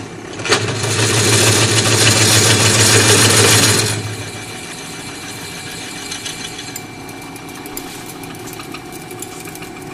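Electric drill running loud while boring holes for M16 bolts in metal, with a steady low hum under a broad hiss. About four seconds in the cutting noise drops sharply, leaving a quieter steady run with faint ticks.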